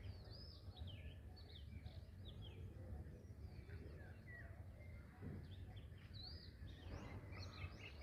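Small birds chirping in many quick, short, falling calls, faint over a steady low background hum.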